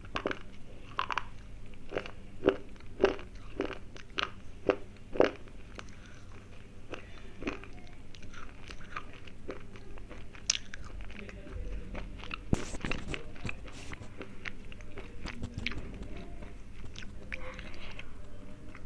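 Thick slate pencils being bitten and chewed, with sharp brittle crunches. The crunches come about every half second at first, then grow sparser, with a dense run of crunching a little after halfway.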